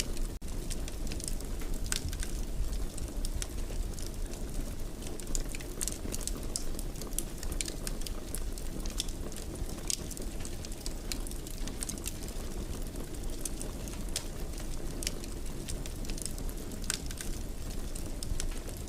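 Wood fire burning in a fireplace: a steady low rush of flame with frequent, irregular crackles and pops.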